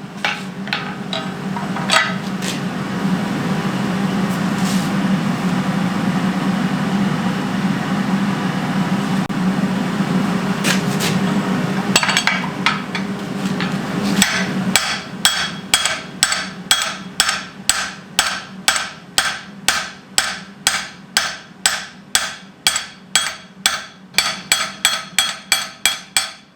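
Steady rushing noise with a low hum and a few scattered metal clinks for about the first half, like a forge running during a heat. Then, about halfway in, a long even run of hand-hammer blows on hot steel at the anvil, about two and a half strikes a second, setting down a shoulder on a wrought-iron-style kettle hook spine.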